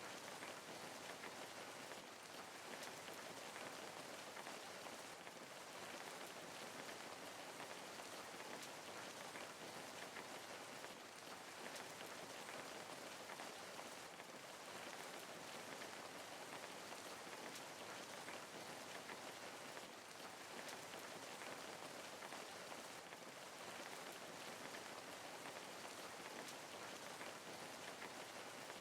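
Steady rain falling, an even dense patter of drops without thunder or other sounds.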